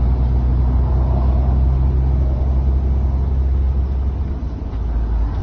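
Motor vehicle engine and road noise, a steady low drone that holds even throughout.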